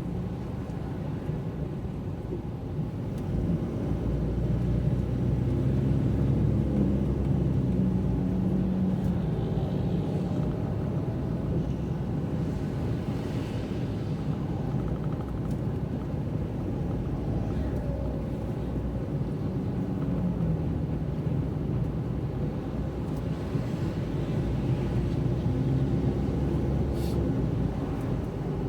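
A car driving on a wet road: steady engine and tyre rumble, with the engine note shifting and growing louder about four seconds in.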